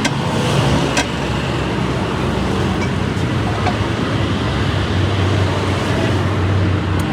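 Road traffic: passing vehicles' engines and tyres make a steady noise, with a low engine hum growing stronger after about five seconds. A single sharp knock sounds about a second in.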